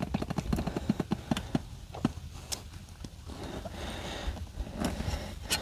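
Irregular light knocks and clicks from hand work on a tractor tire and its tube, denser in the first couple of seconds and sparser after.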